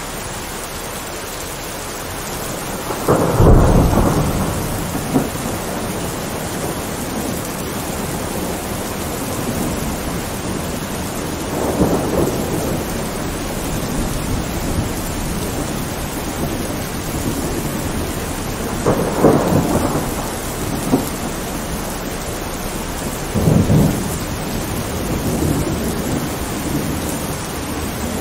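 Thunderstorm: steady rain with several low rolls of thunder, the loudest about three seconds in and others following every few seconds.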